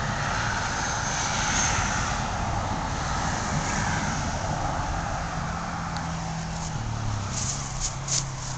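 Steady drone of a distant engine, with a low hum that drops in pitch about seven seconds in. A few light clicks come near the end.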